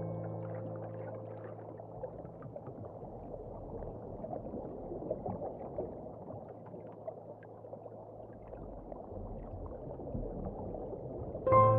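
Soft crackling ocean-water ambience with a low rumble, heard in a gap in the music as a held low chord fades away over the first few seconds. Piano music comes back in just before the end.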